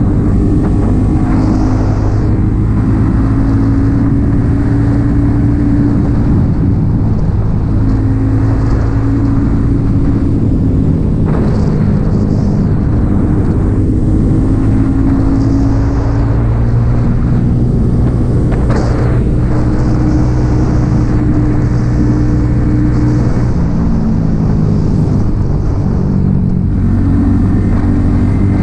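Yamaha XSR 155 motorcycle's single-cylinder engine running through an aftermarket M4 exhaust while riding, its pitch shifting up and down several times with throttle and gear changes.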